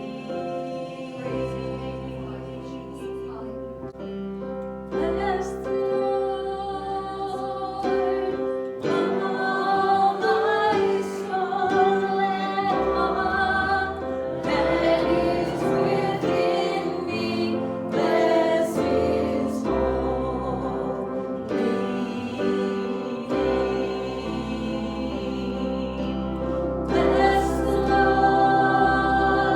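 Worship song sung by a group of voices over instrumental accompaniment, with long held bass notes that change every few seconds.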